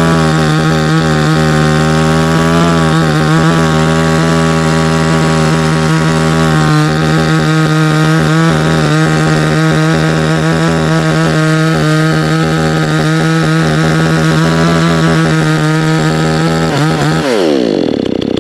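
Chainsaw running at high revs, cutting a notch into a dead pine trunk. Near the end the throttle is let off and the engine pitch falls quickly toward idle.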